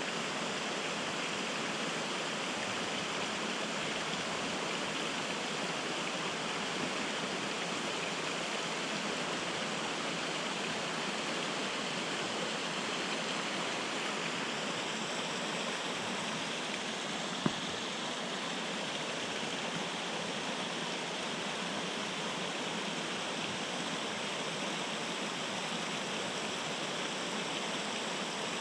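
Steady rushing of a river's current flowing over rocks, with one sharp click a little past halfway through.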